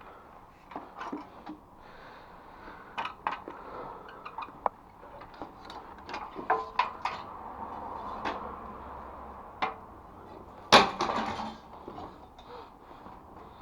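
Scattered knocks and clatters of hard objects being handled, with one loud clang and a short ring about eleven seconds in.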